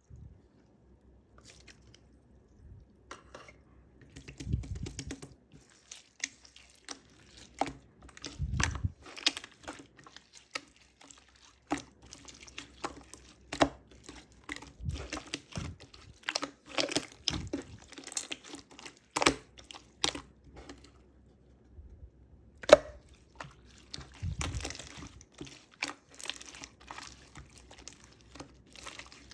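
Clear slime squished, pressed and pulled by hand, giving irregular sticky clicks, pops and crackles with soft squelches between them.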